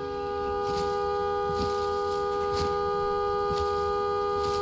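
A steady, sustained two-note tone held without any change in pitch or loudness, horn-like in character.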